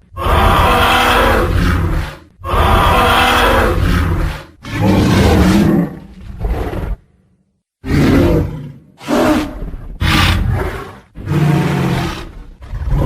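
Tyrannosaurus rex roar sound effects: a string of loud roars, each a second or two long, one after another with a short break of silence about seven seconds in.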